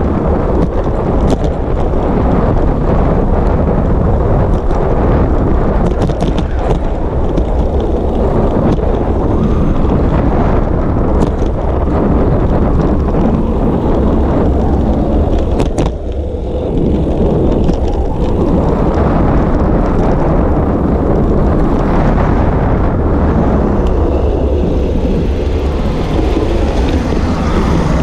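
Wind noise on a GoPro microphone on a moving bicycle: a loud, steady rumble with a brief dip about halfway through, and a few faint clicks.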